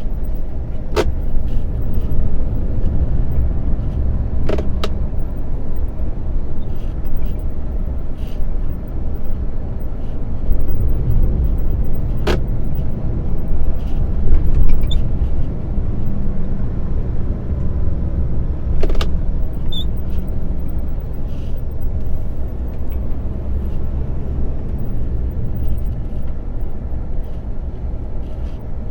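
A lorry being driven, its engine and road noise making a steady low rumble, with four sharp clicks spread through it.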